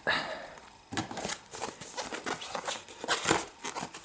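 Packaging being handled and opened, with irregular rustling, crinkling and small clicks as a folded fabric flag is pulled out.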